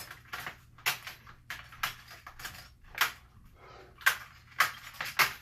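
A run of sharp clicks and cracks, about two a second and slightly uneven.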